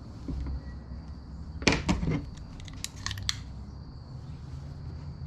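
Razor knife cutting a thin band: a short burst of sharp scraping snicks about two seconds in, followed by a handful of quick light clicks.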